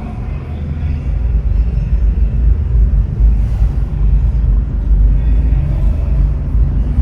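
Car driving on the road: a steady low rumble of road and engine noise, growing louder over the first second.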